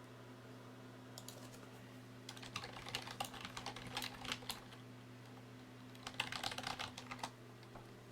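Computer keyboard typing in two short bursts, about two and a half seconds in and again about six seconds in, over a low steady hum.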